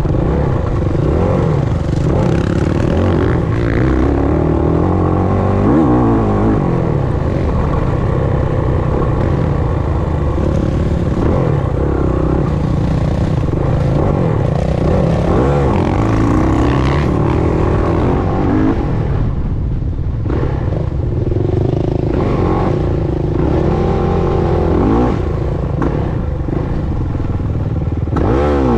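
Dirt bike engine revving up and down as it is ridden over an off-road track, its pitch climbing and dropping every second or two, with some clattering.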